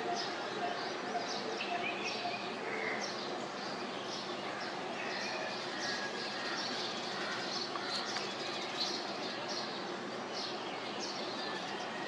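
Birds chirping over steady outdoor background noise: many short chirps, scattered and overlapping.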